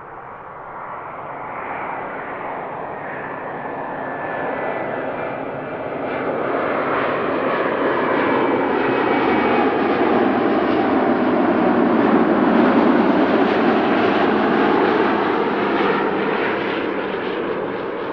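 Jet airliner's engines passing close by: a rushing engine noise that swells steadily, is loudest about thirteen seconds in and then starts to fade, with a sweeping, phasing tone as it goes over.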